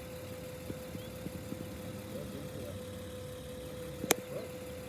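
A vehicle engine idling with a low rumble and a steady hum, and one sharp click about four seconds in.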